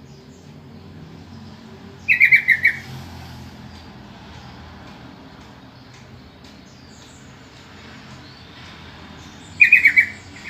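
Yellow-vented bulbul (trucukan) calling: two short bursts of about six quick notes each, one about two seconds in and one near the end, over a steady low hum.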